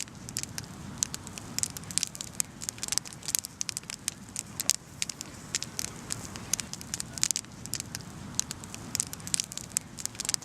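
Campfire crackling, with many sharp irregular pops over a steady low rush of flame.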